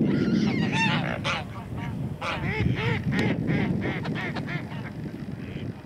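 A mixed flock of geese and ducks calling over one another: many short honks and quacks, busiest in the first few seconds and thinning out toward the end.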